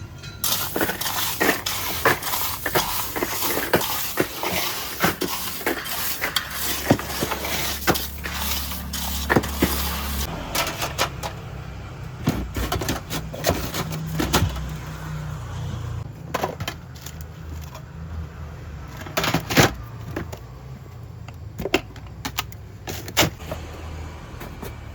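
Irregular clanks and knocks of metal cooking utensils over a steady hiss, with a low traffic rumble underneath.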